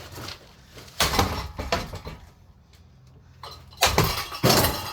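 Golf club striking a Craftmade ceiling fan: a loud hit about a second in with rattling right after, then two more hits near the end.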